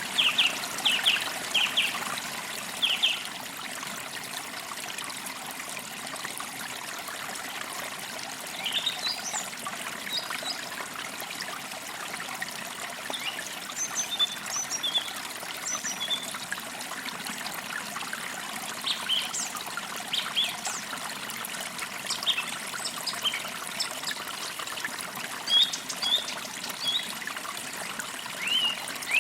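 Forest creek running with a steady trickling hiss, while small birds chirp: a quick run of chirps at the start, then scattered short calls in small groups through the rest.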